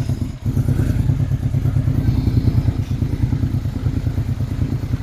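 Honda RC31 motorcycle engine idling cold on part choke after a cold start, a steady, rapidly pulsing low rumble with one brief dip about half a second in.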